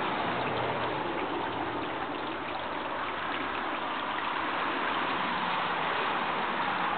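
Steady rushing noise like flowing water, growing slightly louder in the second half.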